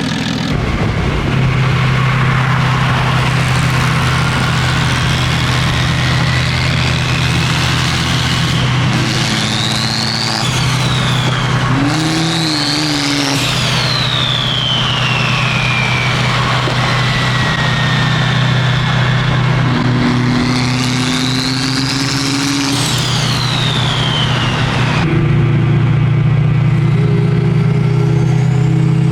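Turbocharged race cars accelerating hard. High-pitched turbo whines rise and then fall three times over a steady low engine drone.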